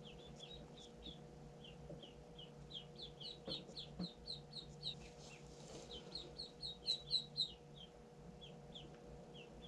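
Day-old ducklings peeping: short, high, falling cheeps repeated several times a second, loudest about seven seconds in, over a faint steady hum.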